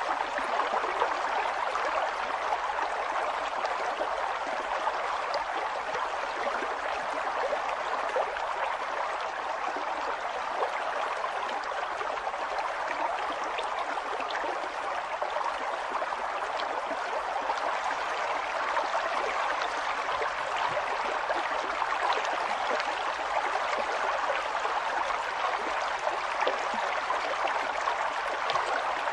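River water flowing and babbling over rocks in a steady rushing hiss, with many small splashes and trickles.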